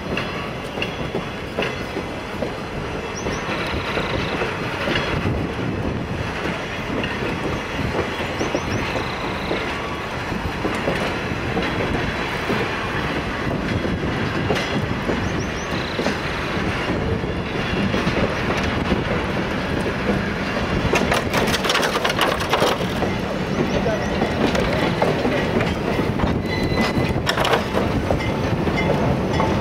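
Freight cars of a slow-moving train rolling past close by: a steady rumble of steel wheels on the rails, with a run of sharp clicks over rail joints about three-quarters of the way through, growing louder toward the end.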